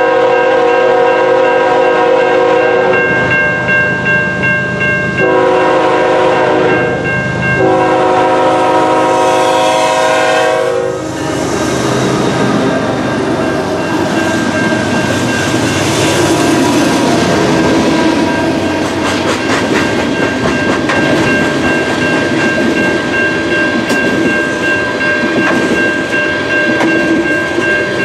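Diesel freight locomotive's multi-note air horn sounding three long blasts, the last cutting off about eleven seconds in. Then the four-locomotive lash-up and loaded tank cars of an oil train pass close by with a loud rumble, and from about two-thirds of the way through the wheels click steadily over rail joints.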